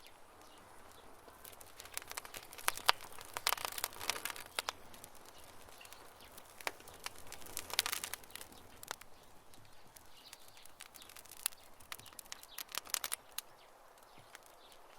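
Campfire crackling, with irregular sharp snaps and pops from the burning wood over a soft hiss; the pops come in busier clusters a couple of seconds in, around the middle and again near the end.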